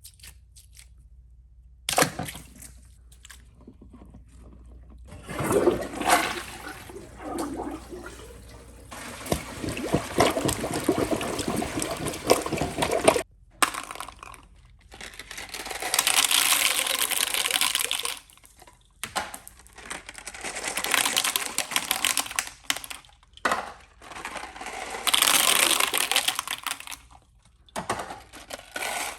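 Toilet flushing again and again: a run of rushing, draining water rushes, each one cut off abruptly before the next begins.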